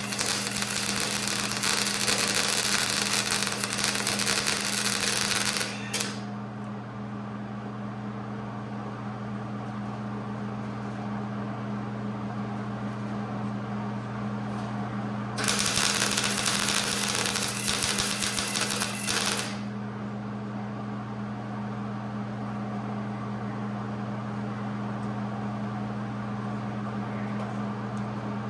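Wire wheel on a grinder scouring surface rust off a steel car frame: harsh scratching in two stretches, the first stopping about six seconds in, the second from about fifteen to nineteen seconds in. A steady low hum runs underneath.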